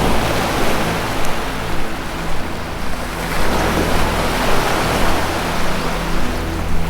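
Ocean surf washing in repeated swells, over a steady low sustained music tone.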